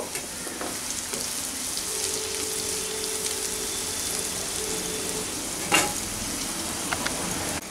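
Vegetables sizzling in oil in a non-stick kadai while a wooden spatula stirs them, a steady frying hiss. There is a single sharp knock about six seconds in.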